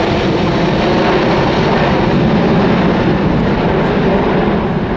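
Airbus A380 airliner flying in a display, its four jet engines making a loud, steady roar.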